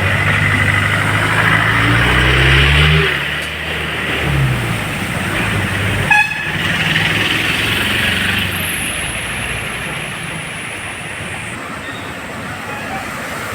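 Road traffic on a flooded street. A vehicle engine rises in pitch and passes over the first three seconds, and a horn gives one short toot about six seconds in, over a steady hiss.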